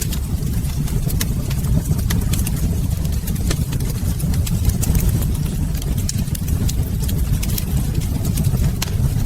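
Wood fire in a fireplace crackling, with frequent sharp, irregular pops over a steady low rumble.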